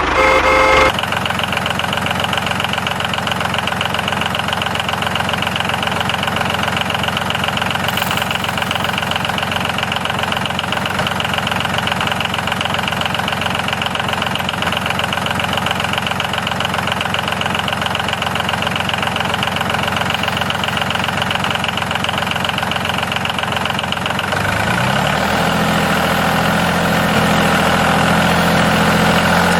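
Small motor of a homemade model tractor running steadily with a fast, even rattle. About three-quarters of the way through, its tone changes to a steadier low hum.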